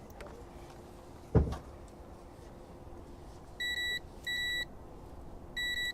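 Continuity tester giving three short, steady beeps in the second half, each signalling that its probes have found an electrical connection across the water-pump connector. There is a single loud thump about a second and a half in.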